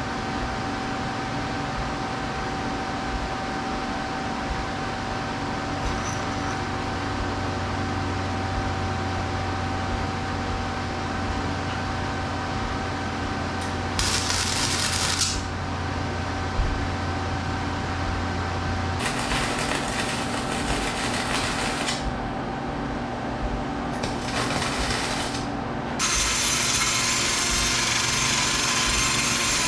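Power tools working metal: a steady motor running, with bursts of harsh grinding noise about halfway, again around two-thirds of the way, and through the last few seconds.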